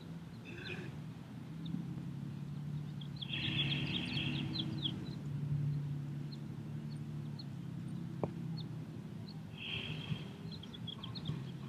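Small birds chirping in short clusters, a few times, over a steady low outdoor hum.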